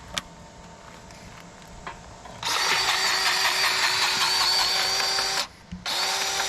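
Battery-powered grease gun motor running for about three seconds, then stopping and running again briefly; the gun has run out of grease.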